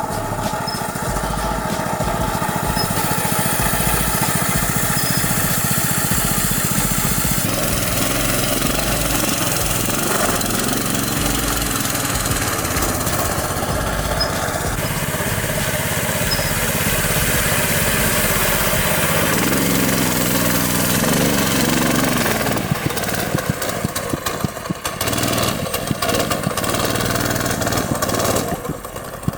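Mini bike's Predator 212 single-cylinder four-stroke engine running under load. Its pitch rises and falls a little past two-thirds of the way through, and the sound turns choppy and uneven in the last few seconds.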